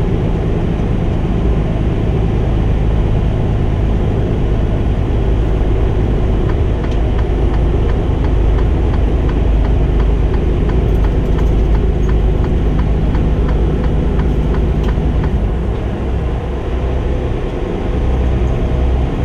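Semi-truck diesel engine and road noise heard from inside the cab at highway speed, a steady low drone that eases off briefly about three-quarters of the way through.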